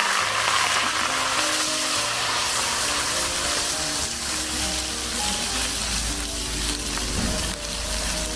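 Wet pickled mustard greens, pickled ginger and pickled chilies sizzling hard and steadily in hot oil in a wok as they are stir-fried to release their aroma. Background music plays underneath.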